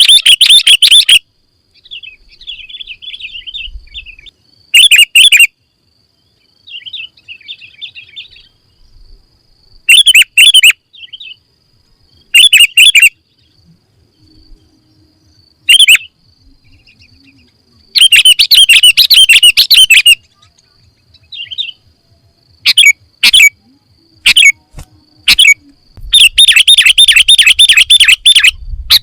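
Sooty-headed bulbul (kutilang) singing: loud bursts of rapid, bright chirping phrases, separated by quieter twittering. The longest and loudest phrases come past the middle and near the end.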